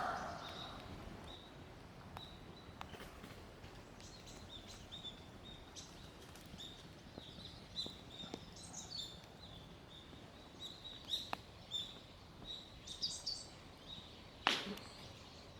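Small birds chirping faintly, short repeated chirps over a low outdoor background, with a few light clicks and one sharper knock near the end.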